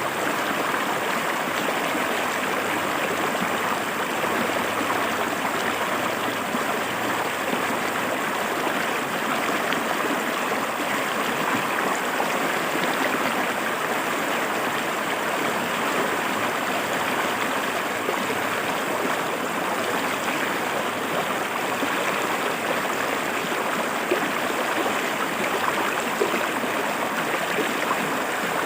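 River water flowing and splashing over rocks: a steady, even rush.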